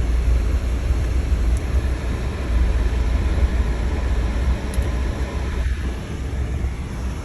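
Steady, loud, low vehicle rumble with a noisy hiss above it, easing slightly near the end.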